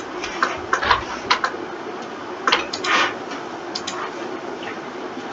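Irregular clicking of a computer keyboard and mouse, in small clusters of quick clicks, over a steady background hum.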